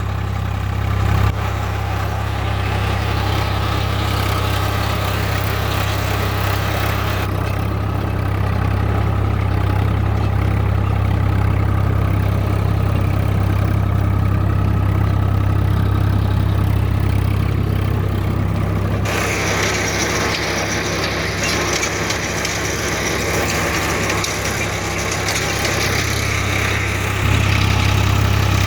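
Swaraj 744FE tractor's diesel engine running steadily under load, its note shifting several times and growing louder near the end.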